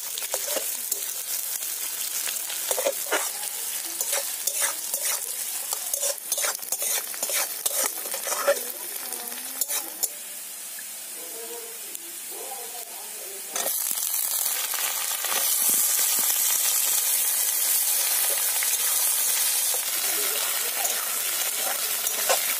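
Sliced onions sizzling in hot oil in a kadai, with a metal spatula scraping and clicking against the pan as they are stirred. A little past halfway the sizzle jumps suddenly louder and stays loud as wet potato cubes go into the hot oil.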